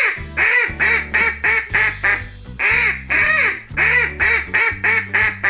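Duck quacking in two runs, each a longer quack followed by quick quacks about three a second, over background music with a steady bass line.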